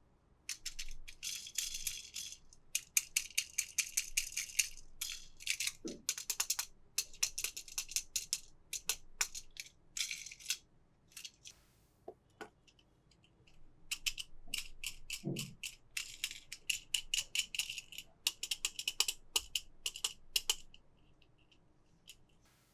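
Toy packaging being handled and opened: quick crackling, clicking and crinkling in several bursts with short pauses between them.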